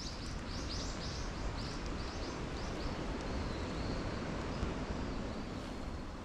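A small bird chirping rapidly, about four short high notes a second for the first three seconds, then a thin faint whistle, over a steady background of outdoor noise.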